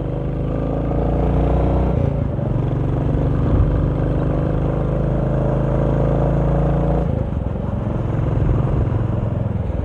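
Motorcycle engine running as it is ridden along the road. Its note steps up about two seconds in and drops back about seven seconds in.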